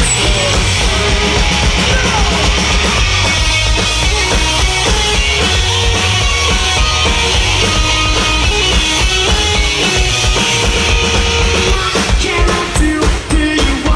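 Rock band playing live: loud electric guitar, bass and drum kit, with singing, heard through a festival PA. The playing gets choppier near the end.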